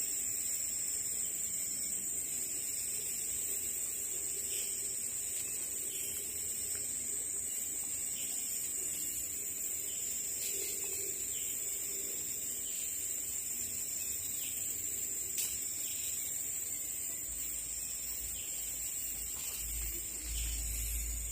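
Steady high-pitched drone of insects in tropical forest, with short bird calls scattered through it. A low rumble joins in near the end.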